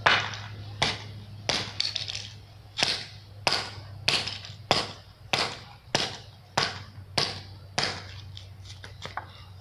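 Repeated sharp blows on a plastic toy race car, a steady run of hits about one and a half a second, over a low steady hum.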